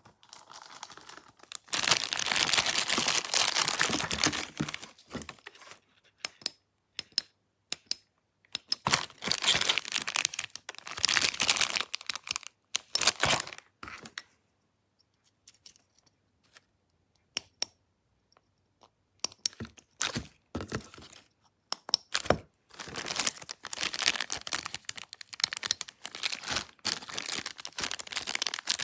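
Material being handled in bursts of tearing, rustling and crinkling, with sharp clicks between them, loudest a couple of seconds in.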